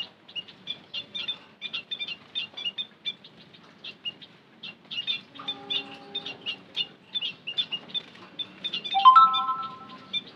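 White-headed munias giving rapid, short, high chirping calls over and over, like a small flock chattering. A low held tone sounds briefly about halfway through, and a louder held tone with a few pitches comes in near the end.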